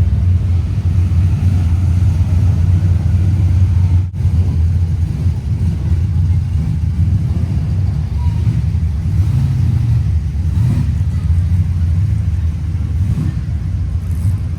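Steady low rumble of car engines, with a brief break about four seconds in.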